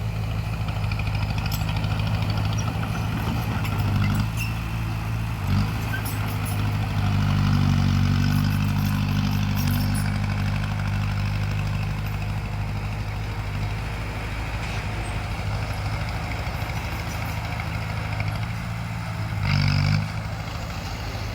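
Crawler bulldozer's diesel engine running steadily, working harder for a few seconds in the middle, with scattered faint clicks and knocks and a brief louder burst near the end.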